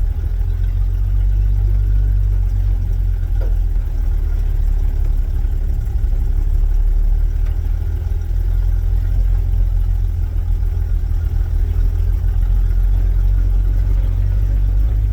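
1972 Chevy C10 pickup truck's engine running as the truck is driven, a steady low rumble.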